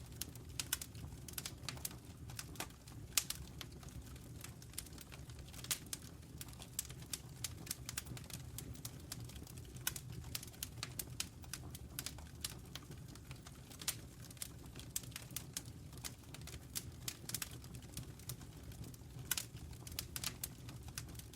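Wood fire burning in a fireplace: irregular sharp crackles and pops over a steady low rumble from the flames.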